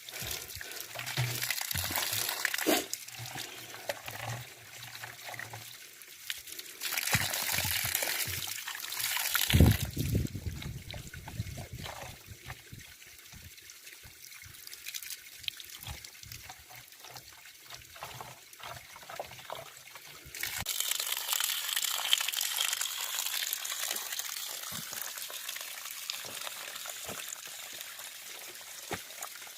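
Water from a mountain mineral spring trickling and pouring as a steady splashing hiss, quieter for a stretch in the middle and louder again from about twenty seconds in.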